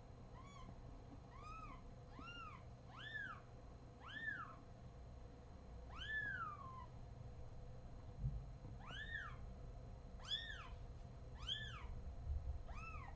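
Newborn kitten crying repeatedly while handled, about ten high-pitched mews that rise and then fall in pitch, roughly one a second, with a longer gap in the middle. A single thump about eight seconds in.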